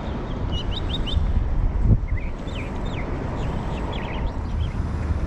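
Birds chirping: many short, quick chirps and calls in quick succession, over a steady low rumble.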